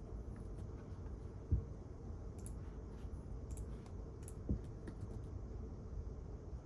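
Library room tone with a steady low ventilation rumble, scattered light clicks of keyboard typing and two soft thumps, about a second and a half in and again three seconds later.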